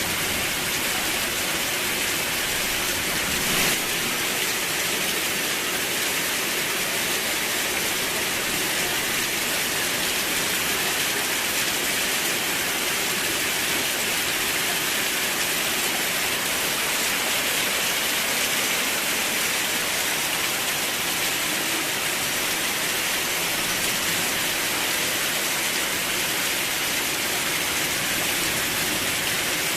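Steady rain falling, an even hiss, with one brief louder hit about three and a half seconds in.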